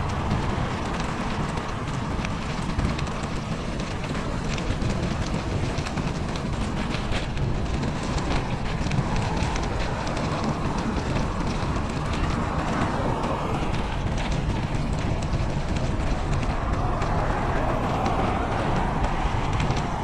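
Steady rushing noise of riding a bike: wind buffeting the microphone and a low rumble from the tyres, with constant fine crackling.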